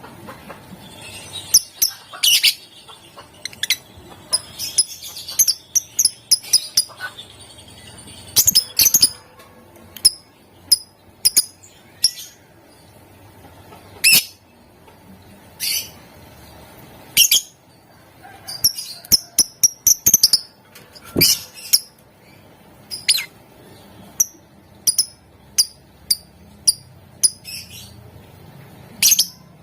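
Lovebird giving short, shrill calls, some single and some in quick runs of several, with pauses of a second or two between them.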